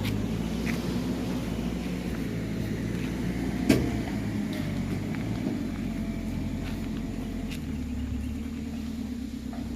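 Dump truck's diesel engine running steadily, with one sharp knock a little under four seconds in.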